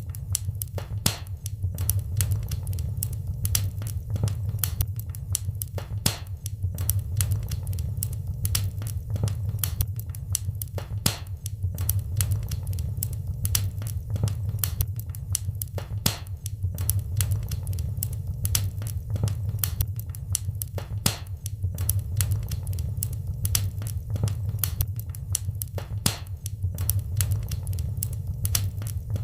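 Wood fire in a fireplace crackling, with frequent sharp, irregular pops and snaps over a steady low rumble of the burning logs.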